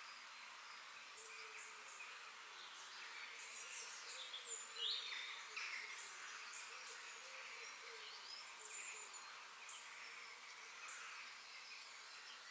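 Forest ambience: many short, high bird chirps over a steady insect hum. The loudest call is a quick falling whistle about five seconds in.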